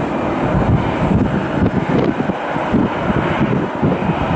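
Airliner jet engines running nearby as a loud, steady noise with an uneven low flutter.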